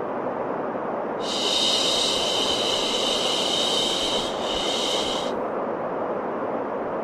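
Steady white noise for baby sleep. About a second in, a higher hissing layer swells in on top of it and drops out again about four seconds later.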